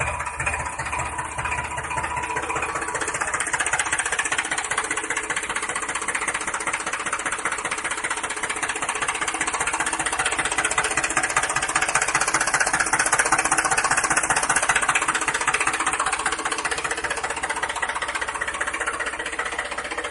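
Mini tractor's motor running steadily with a fast, even rattle.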